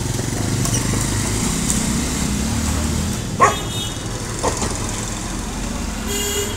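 A motor vehicle's engine running steadily, loudest in the first three seconds, while a dog gives two short barks about three and a half and four and a half seconds in.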